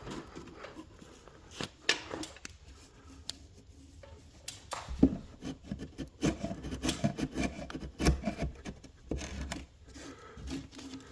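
Wood and tools being handled: scattered knocks and clicks, then a few seconds of rubbing and scraping of wood from about halfway through.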